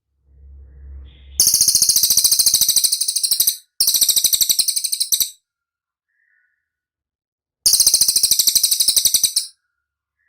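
Cililin bird singing three loud bursts of fast, high-pitched trilling, each a rapid run of evenly spaced notes lasting one to two seconds, with a short gap between the first two and a longer pause before the third.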